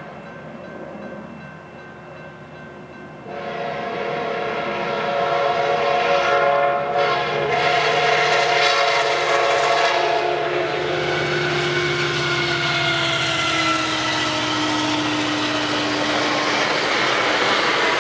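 Sounder commuter train blowing its locomotive horn, a chord that starts suddenly about three seconds in and sounds for several seconds, over the growing rumble and hiss of the train running on the rails. In the second half the horn's tones slide down in pitch as the train goes by.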